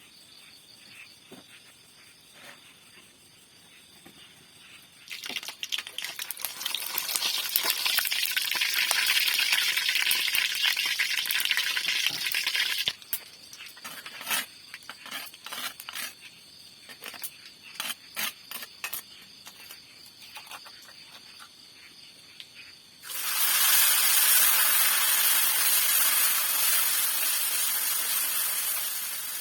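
Food sizzling as it cooks. There are two spells of loud, steady sizzling: the first starts suddenly about five seconds in and stops sharply about eight seconds later, and the second starts near the end. Between them come scattered crackles and pops.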